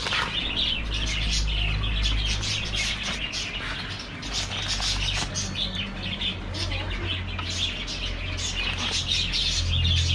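Many small birds chirping continuously, their short calls overlapping, over a steady low hum.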